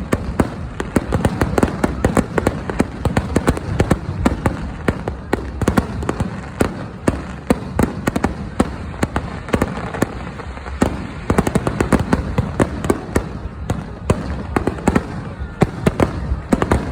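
Aerial fireworks going off in rapid succession: many sharp bangs and crackles, overlapping over a steady rumble, with no pause.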